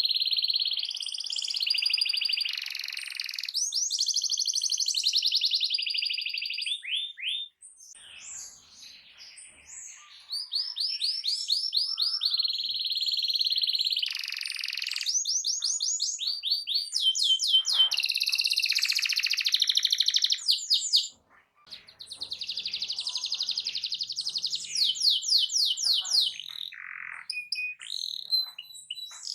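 Domestic canary (local Indonesian canary) singing a loud, long song of fast repeated trills, dropping away briefly twice.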